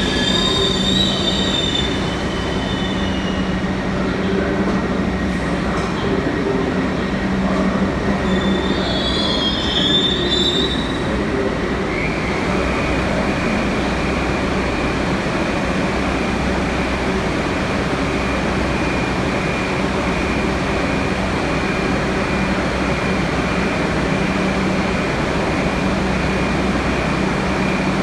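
New York City subway train moving through a station, with a steady rumble and wheels squealing at the start and again about ten seconds in. About halfway through, a steady high tone sets in over the rumble.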